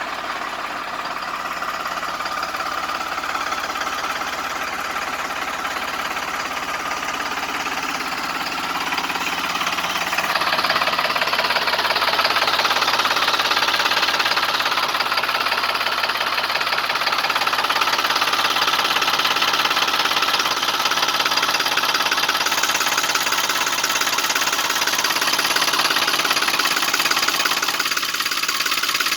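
New Holland tractor's diesel engine running steadily, getting louder about ten seconds in.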